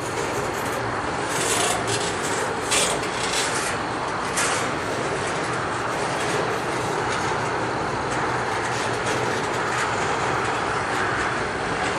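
Double-stack intermodal well cars of a slow-moving freight train rolling past: a steady rumble of steel wheels on rail, with a few sharp clicks in the first half.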